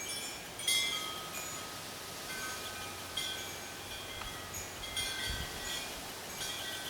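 Wind chimes ringing: irregular clusters of clear, high, bell-like notes struck every second or two, each fading out within about a second.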